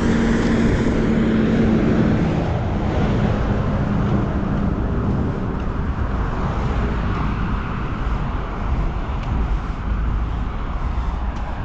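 Road traffic: a motor vehicle passes close by, its engine hum fading over the first two or three seconds, then a steady wash of tyre and road noise.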